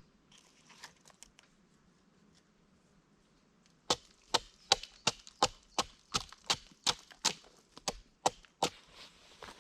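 Wood being chopped: a quick, even run of about fourteen sharp strikes at nearly three a second, starting about four seconds in, after a few faint clicks.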